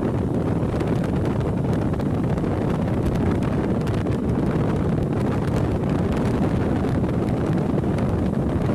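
Steady wind noise buffeting the microphone of a moving motorcycle, with the bike's running noise underneath as a continuous low rumble.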